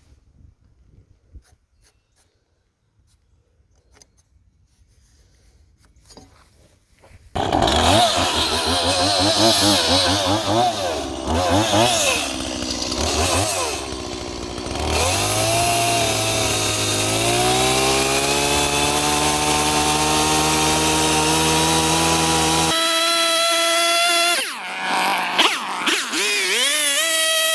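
A few seconds of near quiet, then a chainsaw running hard and suddenly loud as it cuts across the end of a freshly milled log beam to square it. Its pitch climbs steadily for several seconds and shifts again near the end.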